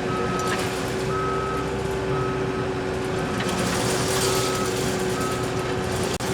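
Compact track loader reversing, its backup alarm beeping about once a second over the steady drone of its engine; the beeps stop near the end as the machine stops backing up.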